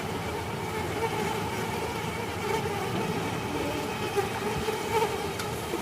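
Many Asian honey bees (Apis cerana) buzzing together in a steady hum.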